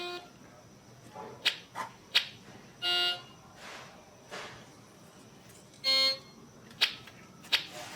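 Toy electronic organ sounding three short notes at different pitches, one near the start, one about 3 s in and one about 6 s in, with sharp clicks in between.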